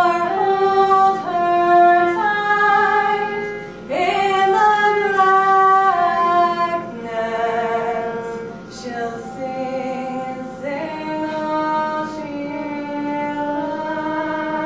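Music: a woman singing a slow melody with held notes, sliding up into new phrases at the start and again about four seconds in.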